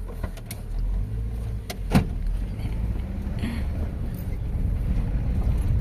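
Steady low rumble of a car heard from inside the cabin, with a sharp click about two seconds in.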